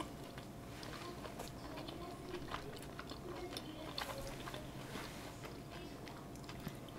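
Faint close-mic chewing of a soft chive-and-tofu dumpling with the mouth closed: soft wet mouth clicks and smacks scattered throughout.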